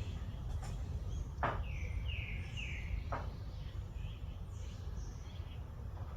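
Wild birds calling: a quick run of three short, down-slurred chirps in the middle, with fainter high chirps scattered around them, over a steady low rumble of outdoor background noise. Two sharp clicks, one just before the chirps and one just after; the first is the loudest moment.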